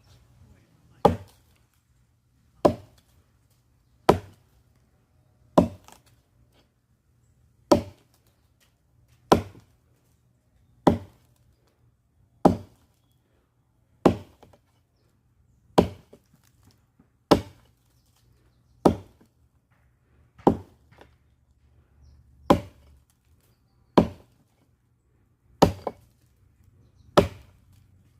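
Firewood being chopped with a blade tool: sharp, regular strikes into wood, about one every second and a half.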